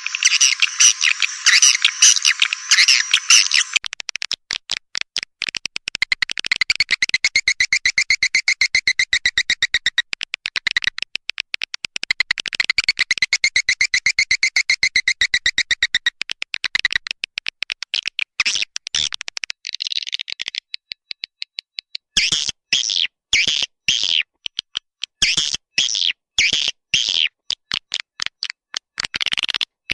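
Swiftlet lure-call track: edited swiftlet chirps and rapid clicking trains. The sound changes from a dense twittering to a fast steady click run with a ringing tone, and from about two-thirds of the way in it breaks into separate chirp bursts with short gaps.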